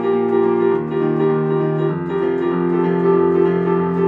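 Piano accompaniment with no voice: sustained chords that change about a second in and again about two seconds in.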